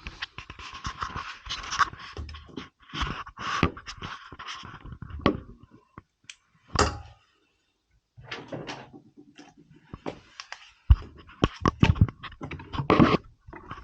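Irregular knocks, scrapes and clicks from hand work on a washing machine being taken apart, with metal and plastic parts handled and moved. There is a short pause just past halfway, then a run of sharper knocks.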